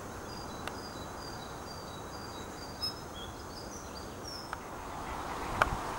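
Small birds calling with short, high, thin chirps, repeated many times over a steady outdoor background hiss, with a few faint clicks.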